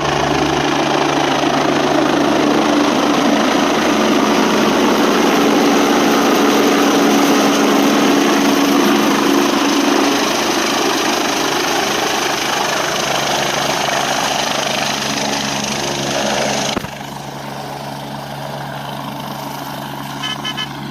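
Helicopter landing: loud, steady rotor and turbine noise. It drops sharply about seventeen seconds in and carries on at a lower level.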